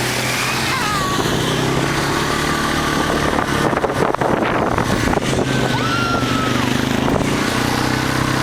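Motorcycle engine running at a steady pitch, with a rougher, noisier stretch of a second or two around the middle.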